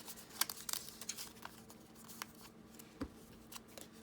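Paper tag being dabbed with an ink pad and handled: scattered light taps and paper rustles, with a soft thump about three seconds in.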